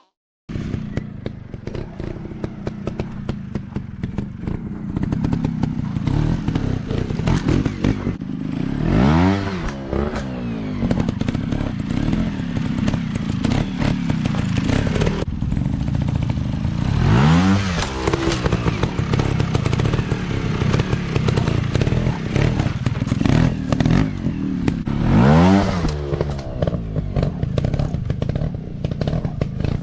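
Dirt bike engine running at low speed over rough ground, with clattering. It revs up and back down three times: at about 9, 17 and 25 seconds in.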